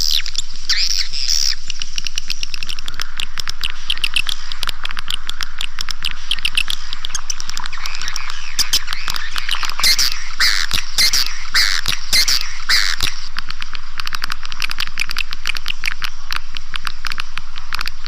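Recorded swiftlet calls played as a lure sound for a swiftlet house: a dense, unbroken chorus of high chirps and rapid clicks, many birds at once, with no pause.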